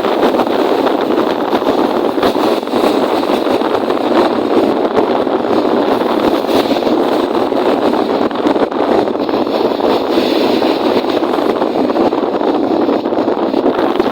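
Strong wind and choppy lake waves on a windy day, a loud, steady rushing with no let-up.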